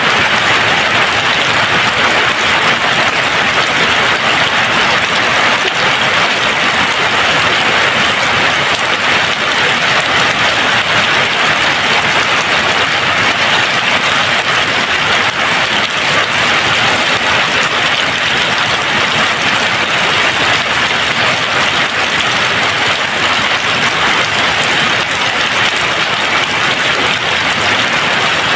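Steady, even rain falling, a constant hiss with no thunder or separate drops standing out.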